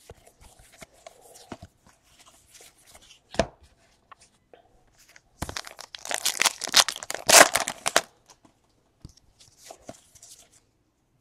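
A trading-card pack's foil wrapper being torn open and crinkled, a dense crackling tear lasting a few seconds past the middle. Small clicks and a sharper snap come from cards and wrappers being handled.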